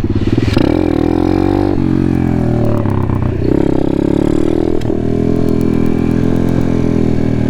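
Apollo pit bike's small single-cylinder engine being ridden, revving up and easing off several times under throttle.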